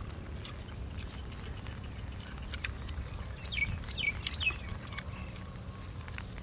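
A bird calls three quick, falling chirps about halfway through, over a steady low rumble and scattered small clicks.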